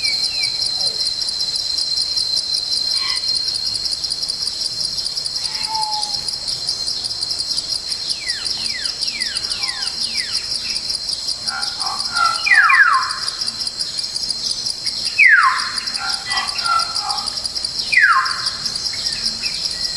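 A steady, high-pitched chorus of forest insects runs throughout, with birds calling over it. About midway comes a run of quick downward-slurred whistles, then three loud calls sweeping sharply downward, a few seconds apart, in the second half.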